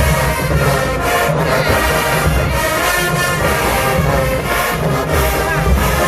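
A marching band playing loudly, brass over a heavy pulsing beat of drums and low horns.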